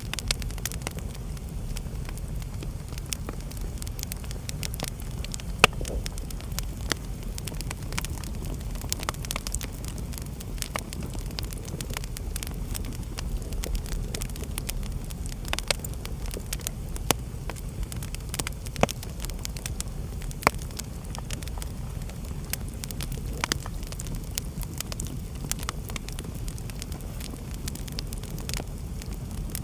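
Wood fire burning in a fireplace, crackling with scattered sharp pops over a steady low rumble; one pop about five seconds in is the loudest.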